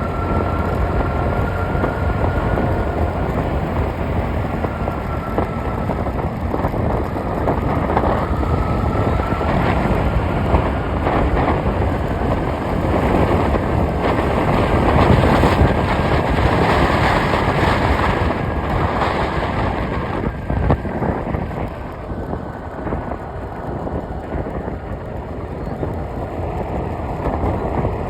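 Steady road noise from a moving vehicle, with wind on the microphone and a faint thin whine that drifts slowly up and down in pitch.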